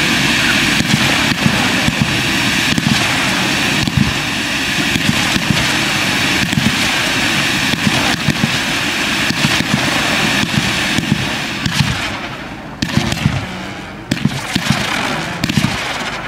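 Fireworks display: a dense, continuous hiss of effects firing, with many rapid sharp pops and bangs. The sound thins out briefly about twelve seconds in, then picks up again.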